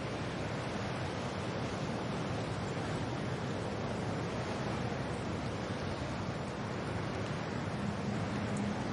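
Steady wind and rain: an even rushing hiss with no single drops or gusts standing out, and a faint low hum coming in near the end.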